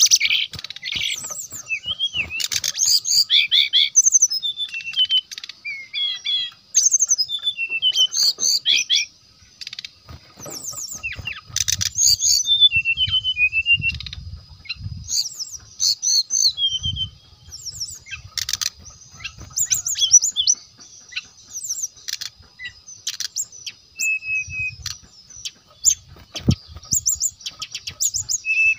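Brown-chested jungle flycatcher (sikatan rimba dada coklat) singing: a busy run of quick chirps and short whistled phrases, many sliding downward, with a thin steady high tone behind them.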